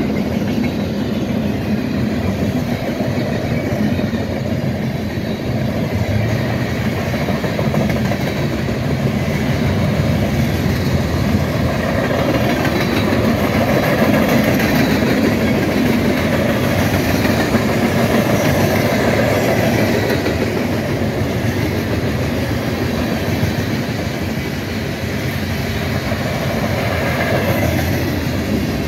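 Freight train cars, covered hoppers and boxcars, rolling past at speed: a steady rumble of steel wheels on the rails.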